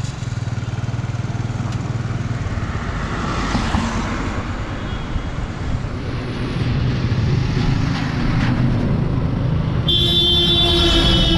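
Motorcycle engine running as the bike rides off just after starting, with road and wind noise. A loud horn sounds near the end, its pitch dropping as it fades.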